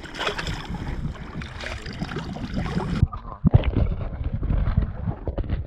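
Wind buffeting the microphone outdoors by the water, a steady rumbling hiss. About three seconds in the sound turns abruptly duller, and a couple of sharp knocks follow.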